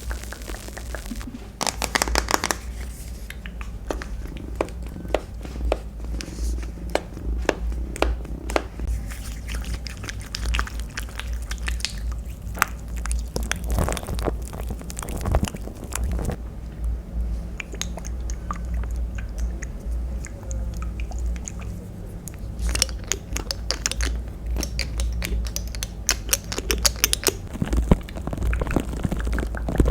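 Close-miked crackling, scratching and tapping sounds, dense and irregular, over a low steady hum.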